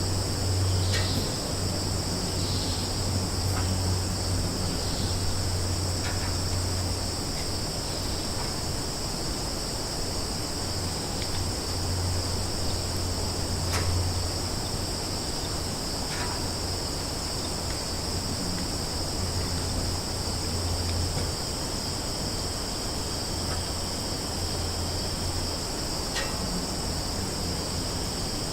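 Summer forest ambience: a steady, high-pitched chorus of crickets and other insects, over a low hum that drops out now and then. A few brief chirps stand out here and there.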